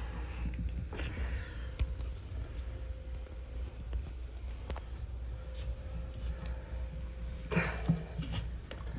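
Faint light clicks and handling noise as a toilet water supply line's coupling nut is unscrewed by hand, with a brief rustle about seven and a half seconds in, over a low steady hum.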